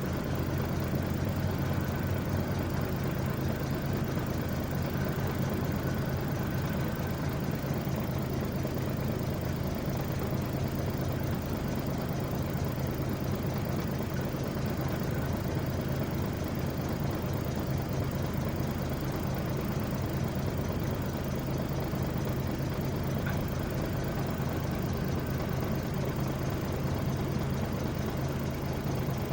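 Truck engine idling steadily, an even low running note that does not change.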